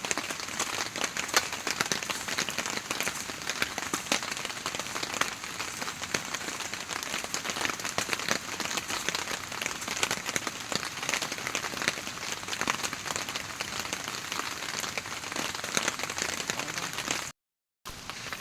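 Heavy rain falling steadily, a dense patter of drops, broken off for a moment near the end.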